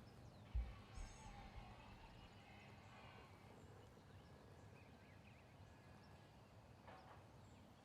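Near silence: faint outdoor ambience with a few faint bird calls, a short low thump about half a second in, and a brief faint call near the end.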